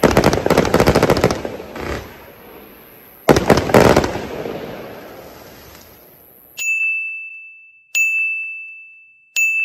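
Fireworks going off in the night: a rapid run of sharp cracks and bangs that dies away over about two seconds, then a second sudden burst of cracks about three seconds in that fades out. Near the end a bright electronic chime dings three times, evenly spaced.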